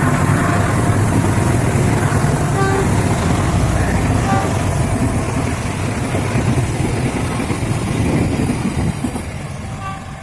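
A passing train's steady, loud rumble, fading over the last couple of seconds.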